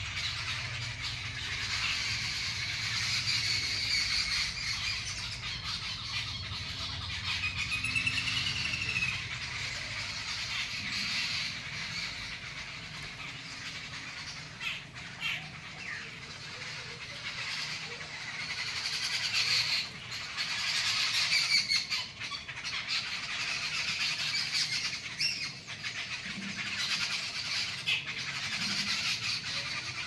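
Birds calling in trees: many overlapping chirps and calls run on without a break, with a clear series of short rising-and-falling notes about eight seconds in.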